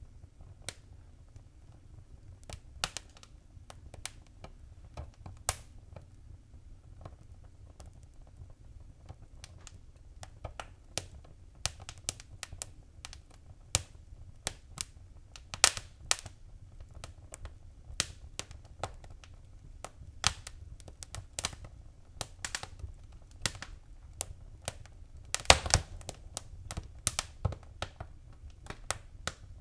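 Wood fire crackling in a fireplace: irregular sharp pops and snaps over a low steady rumble, growing more frequent after the first few seconds, with the loudest burst of pops near the end.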